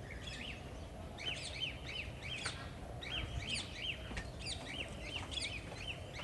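Birds chirping: many short, arched chirps in quick succession, thickening about a second in, over a low steady background rumble.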